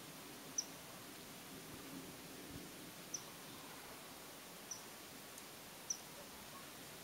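Common kingfisher giving four short, high, thin calls at irregular intervals, each note dipping slightly in pitch, over a steady faint hiss.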